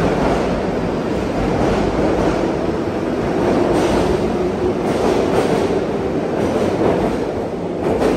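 Sydney Trains Tangara double-deck electric train running past along an underground platform: a steady rumble of wheels on rail, with a few short clicks from the wheels over rail joints and a faint motor hum in the middle.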